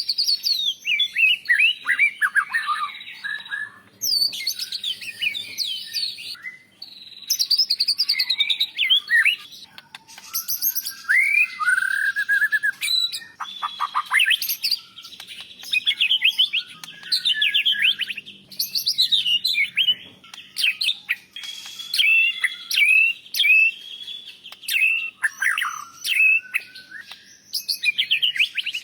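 White-rumped shama singing a long, varied song of clear whistles, fast trills and chattering phrases, with short pauses between bursts.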